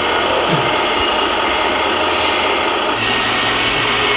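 Continuous mechanical grinding and rattling of the small geared drives of RC construction models.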